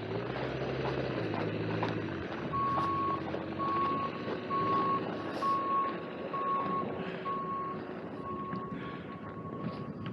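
A vehicle's reversing alarm beeping at an even pace, about three beeps every two seconds, starting a couple of seconds in, over the steady running of its engine.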